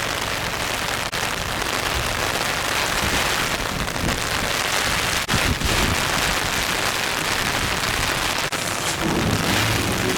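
Steady heavy rain falling, a dense even hiss, with a few faint low bumps.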